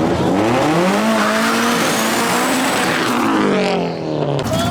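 A performance car's engine accelerating hard: the revs climb over the first second, hold, then fall away about three seconds in, with a thin high-pitched whine rising alongside.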